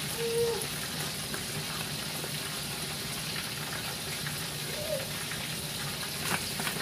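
Breaded chicken frying in hot oil in a cast-iron skillet: a steady, even sizzle.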